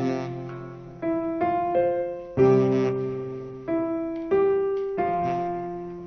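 Piano chords played slowly, each struck and left to ring and fade before the next, about one every second. This is the quiet opening of a ballad.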